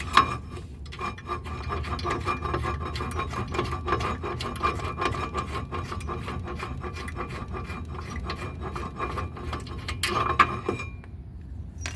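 Hand ratchet clicking rapidly and steadily as already-loosened bolts on the brake assembly are backed out, with a louder metal clatter about ten seconds in.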